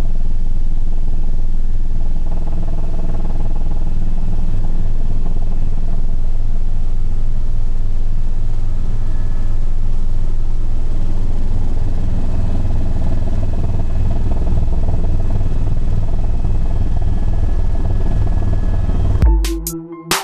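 Helicopter in flight: steady, loud low rotor and engine noise that does not change. It cuts off abruptly about a second before the end, giving way to electronic music with a heavy beat.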